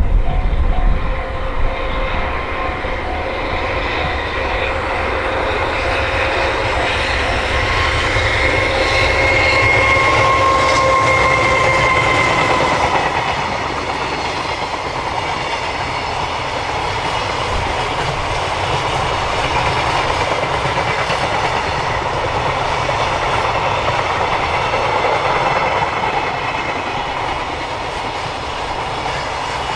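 Long container freight train of Koki flatcars rolling past at speed, wheels clattering over the rail joints in a steady rumble. A steady whine is heard along with it at first and fades out about twelve seconds in.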